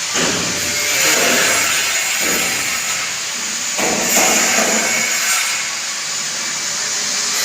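Wood being sawn during door fitting: a loud, rasping noise that swells and eases in uneven strokes.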